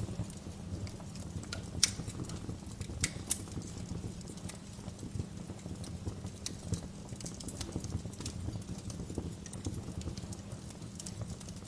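Wood fire crackling: frequent sharp pops and snaps over a low, steady rumble, the loudest pop about two seconds in.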